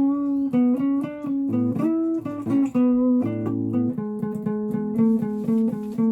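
A guitar being played: a quick run of single plucked notes, several a second, with a few held notes among them.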